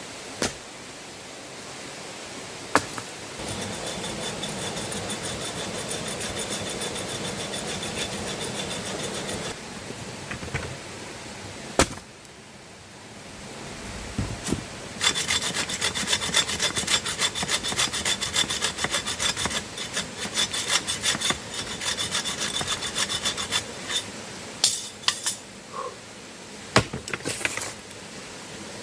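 A hand saw cutting through wood in two long bouts of quick back-and-forth strokes, with a few sharp knocks between them.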